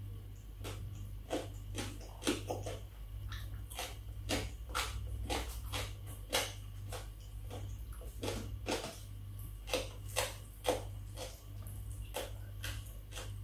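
Close-up chewing and mouth smacks of a person eating fried aubergine and rice vermicelli: many short, sharp clicks and crunches, about two a second, over a steady low hum.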